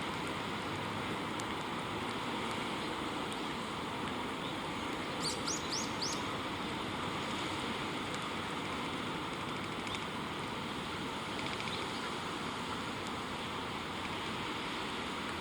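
A quick series of four or five short, high, piercing calls from a common kingfisher about five seconds in, over a steady background hiss.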